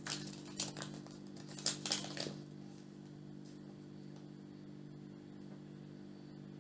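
Light clicks and rustles of a small toy and its packaging being handled, for about the first two seconds, then only a steady low hum.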